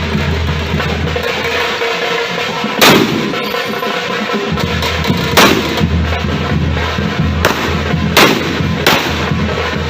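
Fireworks going off: five loud, sharp bangs, each ringing out briefly, with two close together about two-thirds of the way in.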